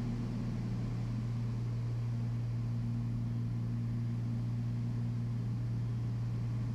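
Steady low drone of a Beechcraft Baron B55's twin piston engines and propellers at reduced approach power, heard in the cockpit.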